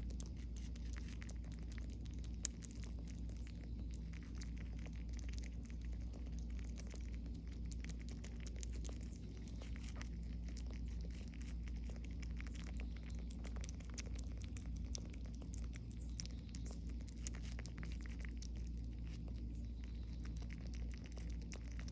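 Squirrels eating watermelon: many faint, irregular clicks and ticks of nibbling and chewing over a steady low hum, with one sharper click about two and a half seconds in.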